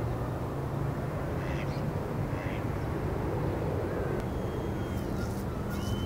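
Outdoor field recording with a steady low rumble, two short harsh bird calls about one and a half and two and a half seconds in, and thin high whistled bird notes that glide in pitch over the last two seconds.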